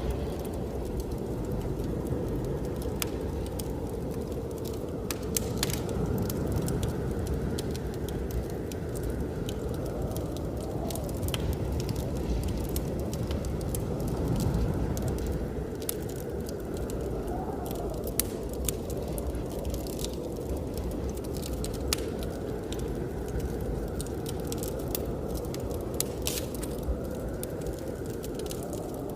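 Wood fire crackling with scattered sharp pops, over a steady low rush of blizzard wind that slowly swells and eases.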